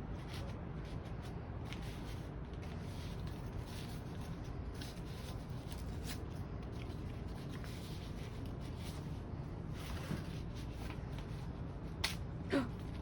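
Bird of paradise leaves being wiped down by hand with a cloth or sponge: irregular short rubbing and rustling strokes. A brief squeak falling in pitch comes near the end.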